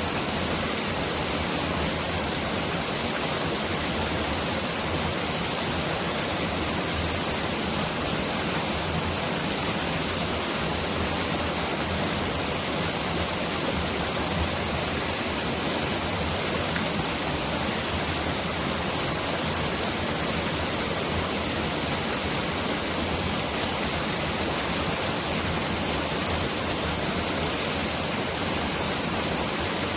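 Mountain valley stream rushing steadily: a dense, even hiss of flowing water spread across high and low pitches, close to the sound of pouring heavy rain.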